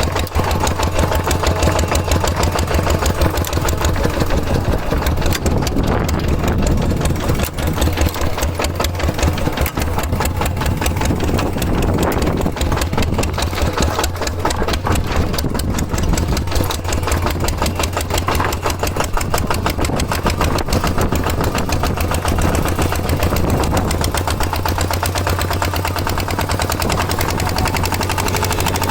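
Small tractor engine running steadily with a fast, even chugging beat.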